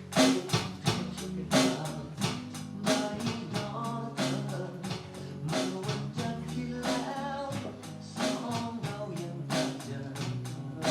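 Ukulele strummed over a drum kit keeping a steady beat, playing a pop song.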